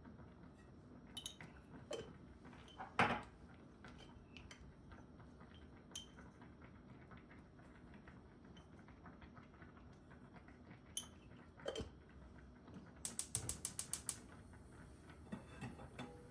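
Scattered clicks and knocks of household objects being handled, with one louder knock about three seconds in and a quick run of about a dozen even clicks near the end.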